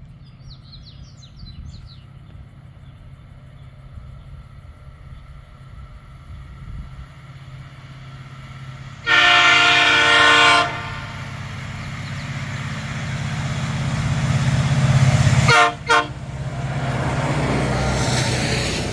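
Diesel freight locomotive approaching, its engine hum growing louder, sounding its multi-tone air horn for the level crossing: one long blast about nine seconds in, then two short toots near sixteen seconds, followed by the rising rush of the train passing. Birds chirp briefly at the very start.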